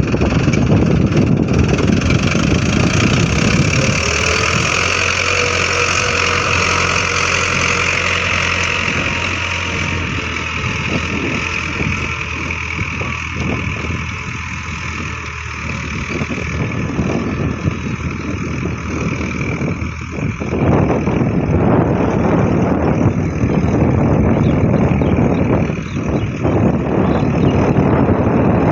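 Farm tractor's diesel engine running steadily, its sound changing about twenty seconds in.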